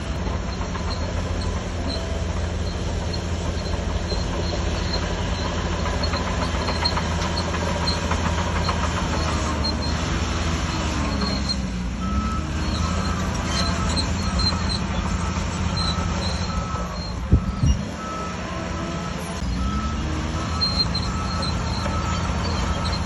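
Bulldozer's diesel engine running steadily under load, its pitch dipping and recovering twice. There are a couple of sharp metallic knocks about seventeen seconds in, and a short beep repeats at even intervals through the second half.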